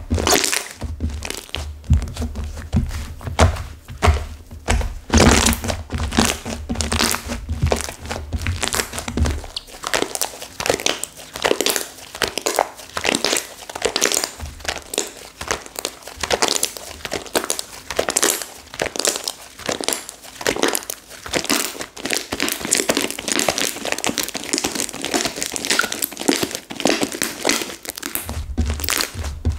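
Clay slime that has hardened stiff being squeezed and kneaded by hand, giving a continuous dense crackle of small pops and crinkles. Low thuds come with it through roughly the first third and again right at the end.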